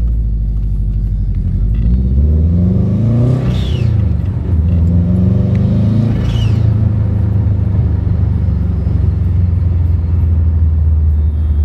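Subaru Forester STI's turbocharged 2.5-litre flat-four blipped twice while stationary. Each rev rises and drops off with a short high-pitched hiss from the GFB blow-off valve as the throttle shuts, set fully open to vent, then the engine settles back to a steady idle.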